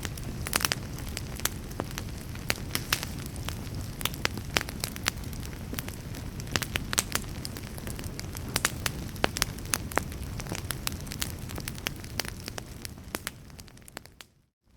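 Wood fire burning in a fireplace: a steady low rumble of flame with frequent sharp, irregular crackles and pops of burning wood. The sound fades out to silence for a moment near the end, then comes back.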